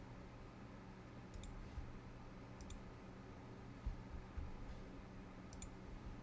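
Three computer mouse clicks, spread over several seconds, over a faint steady low hum.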